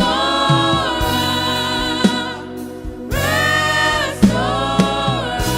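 A choir sings a gospel worship song with band accompaniment, holding long notes, and a few sharp percussive hits sound under the singing.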